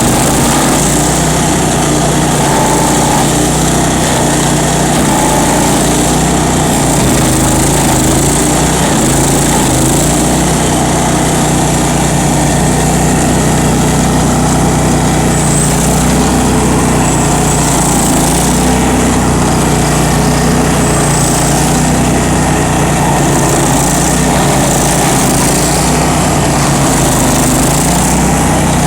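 Bandit ZT1844 stump grinder's engine running steadily at a constant speed.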